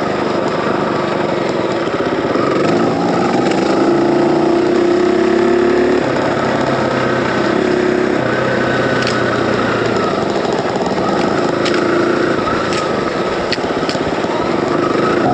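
Dirt bike engine running continuously as it rides a mountain trail, its pitch changing in steps several times. A few sharp ticks come through in the second half.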